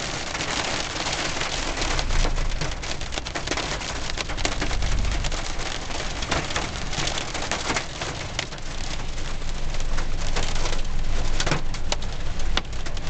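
Hail pelting a car's roof and windows, heard from inside the cabin: a dense, constant clatter of many sharp impacts over a steady hiss.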